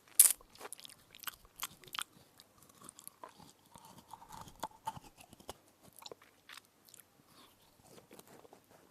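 Close-miked biting and crunching of a crisp edible spoon: a loud crack about a quarter second in, then irregular crunchy chewing.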